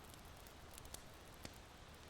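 Faint crackle of a charcoal fire in an irori hearth: a few small sharp pops near the middle, over a low steady background hush.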